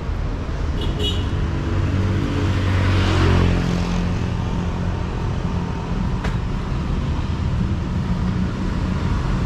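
Road traffic: vehicle engines running steadily, with one vehicle passing close about three seconds in.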